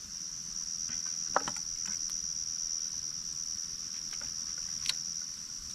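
Night insects, most likely crickets, chirring steadily in one continuous high note. A sharp click comes about a second and a half in and another near the end.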